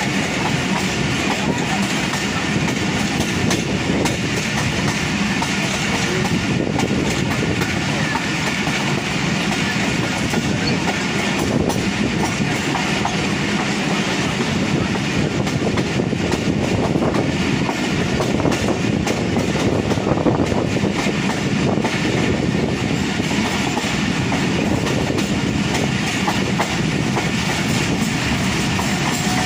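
Passenger train coach running along the track, heard from an open coach window: a steady rumble of the wheels on the rails with rail-joint clickety-clack.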